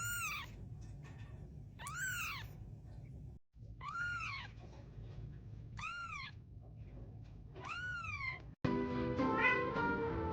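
A cat meowing five times, about every two seconds, each meow rising and then falling in pitch. Music starts about three-quarters of the way through.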